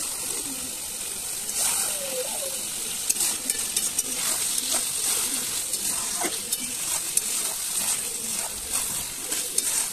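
Spiced mutton sizzling in oil in a kadhai while a metal spatula stirs it, with frequent short scrapes and clicks of the spatula against the pan. The masala is at the stage of frying where the oil separates, showing the meat is well browned.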